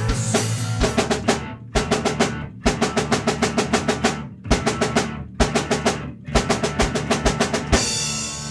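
Rock band's closing section: rapid snare-drum rolls with the guitars and bass, played in several quick bursts, then a final chord left ringing out near the end.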